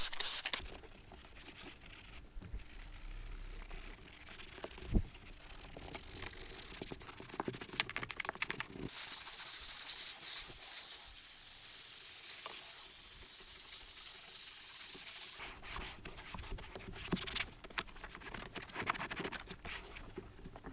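Detailing brush scrubbing a rubber truck floor mat with interior cleaner: scratchy, rapid brushing strokes, with a denser, hissier stretch of scrubbing in the middle.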